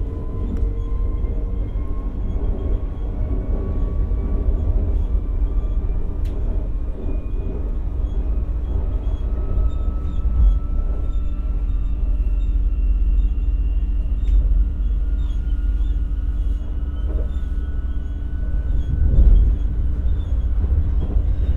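Stockholm commuter rail X60 electric multiple unit running, heard from inside the carriage: a steady rumble of wheels on the track with a thin electric motor whine that rises slowly in pitch as the train picks up speed.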